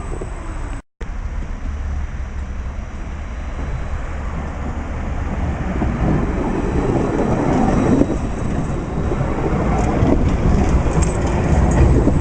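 Tram running on street track: a low rumble of wheels on rails that grows louder over the second half, with a few light clicks near the end. The sound cuts out completely for a moment about a second in.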